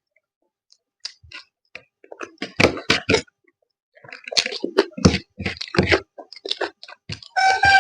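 Close-miked eating sounds: irregular chewing, smacking and clicking of a mouthful of fish. Near the end a rooster starts crowing, one long call.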